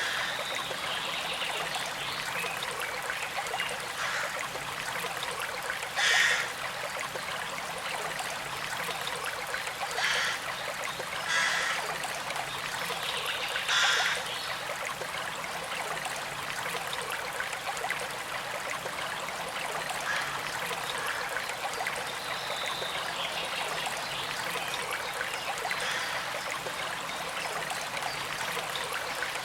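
Small creek trickling and flowing steadily, with a few brief louder splashes in the first half.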